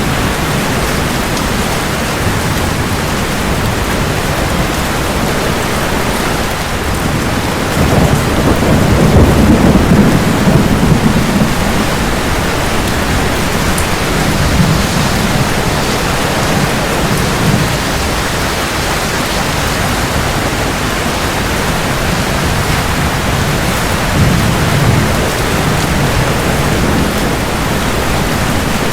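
Steady heavy rain with rolling thunder: a long low rumble swells up about a quarter of the way in, and a shorter one comes near the end.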